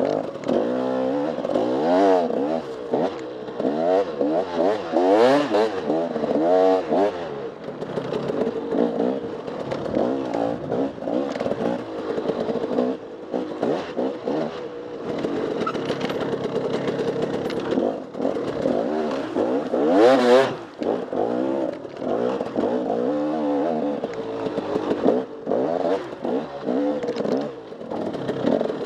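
Dirt bike engine ridden hard on an enduro trail, its pitch rising and falling over and over as the throttle is worked. Frequent clattering knocks from the bike over rough ground, and a loud noisy burst about twenty seconds in.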